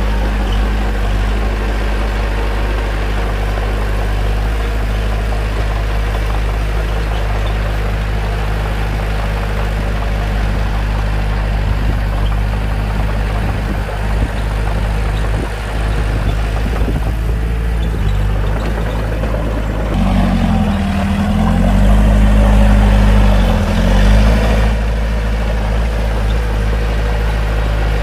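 Bulldozer's diesel engine running steadily. About two-thirds of the way through it gets louder and its pitch dips and comes back up twice.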